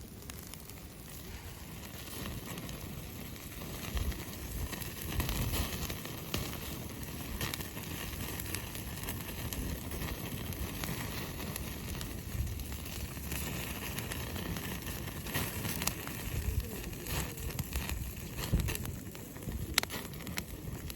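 Wood campfire burning and crackling, with scattered sharp pops.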